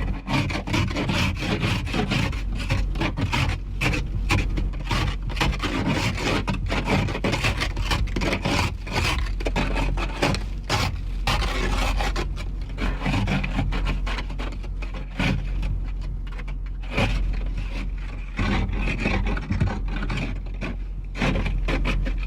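Ice scraper rasping a thin layer of ice off a car windshield in quick repeated strokes, over a steady low hum.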